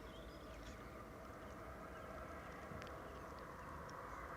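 Faint, steady outdoor background hiss, with a few faint high chirps.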